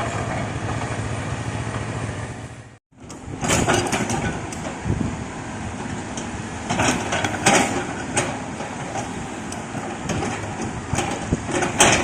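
Excavator's diesel engine running steadily, fading out to a short break about three seconds in; it then returns running unevenly, with repeated clanks and knocks.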